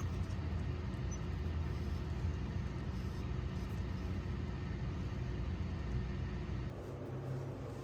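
Steady low rumble of background noise, which shifts abruptly to a quieter, humming tone near the end.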